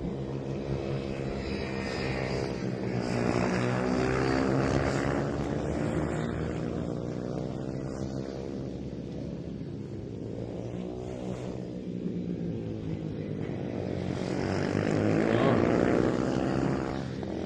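Several MIR 110cc mini racing motorcycles running at full throttle, their small engines buzzing with pitch rising and falling as bikes pass and change gear. The bikes are loudest about four seconds in and again near the end.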